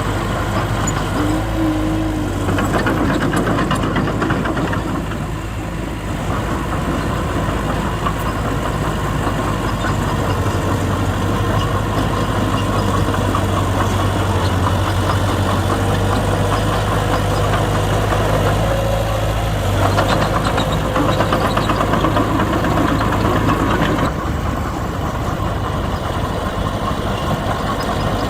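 Heavy diesel earthmoving machinery running steadily, a bulldozer's or dump truck's engine, with its low hum throughout and the engine noise growing louder for a few seconds twice.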